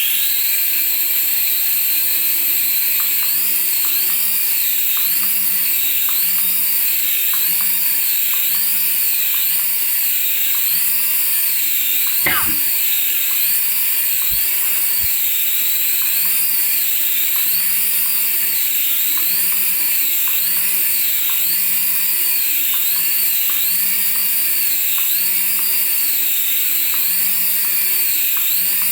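Small electric motor of a radio-control toy running with a steady high whine. Its pitch wavers up and down a little faster than once a second.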